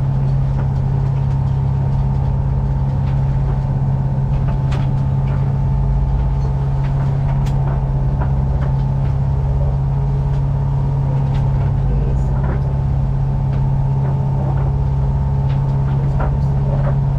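A sailing yacht's inboard engine running steadily under way, a constant low drone with a fainter higher hum above it and a few light clicks.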